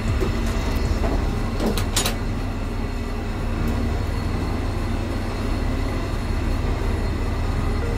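Train running along the track, heard from on board: a steady low rumble of wheels on rails, with two sharp clicks about two seconds in.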